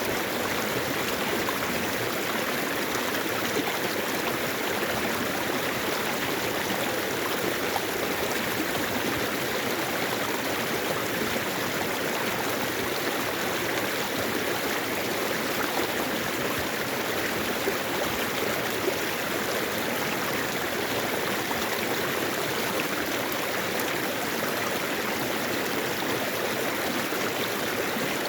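Mountain valley stream rushing and gurgling over rocks, a steady, even flow of water.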